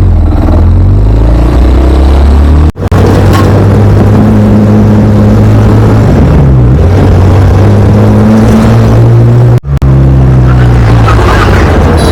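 Motorcycle engine running under way, its pitch climbing and dropping and climbing again as the bike accelerates and changes gear. The sound breaks off sharply for a moment twice, about three seconds in and near ten seconds.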